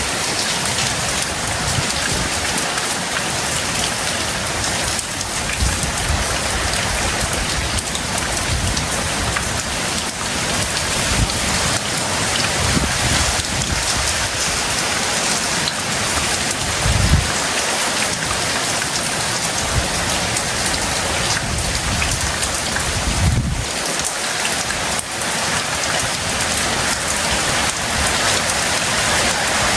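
Heavy tropical rain pouring down steadily. Twice, about 17 and 23 seconds in, a brief low rumble rises over it.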